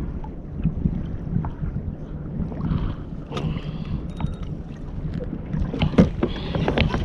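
Water lapping against a fishing kayak's hull, with wind on the microphone and a few sharp knocks, the loudest about six seconds in.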